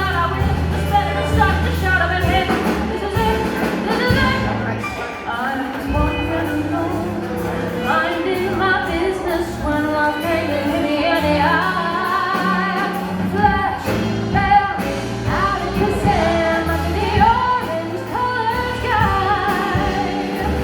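Live jazz band playing a swing-style jazz standard while a singer sings over it, with a steady walking bass line.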